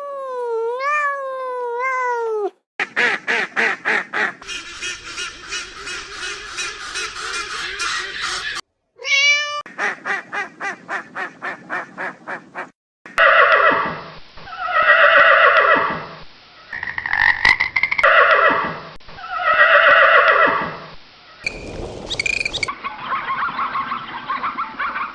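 Ducks quacking: fast runs of repeated quacks, then louder drawn-out calls that fall in pitch. A short wavering, whistle-like sound effect cuts in at the start and again about nine seconds in.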